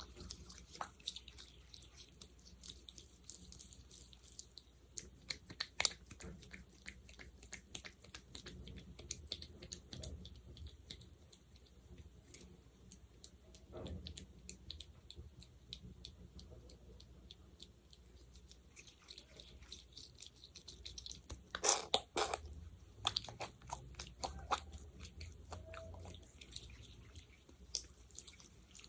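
Close-miked sticky gel being worked with the fingers: a continuous run of small wet, sticky clicks and crackles, with a louder cluster about three quarters of the way through.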